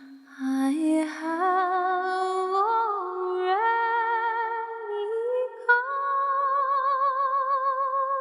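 Wordless a cappella singing: several layered voices hold long notes in harmony with vibrato, the chord climbing step by step as more voices join.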